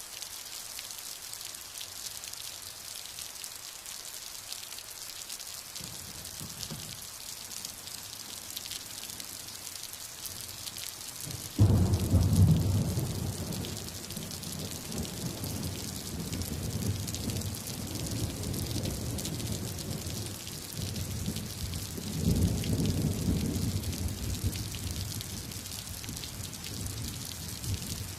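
Steady heavy rain with rolling thunder: a faint distant rumble about six seconds in, then a sudden close crack of thunder just before the middle that rumbles on for several seconds, and another swell of rumbling thunder near the end.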